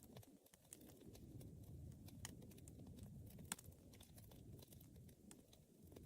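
Wood fire burning quietly: a soft, uneven crackle with scattered sharp pops and snaps, the loudest at about three and a half seconds.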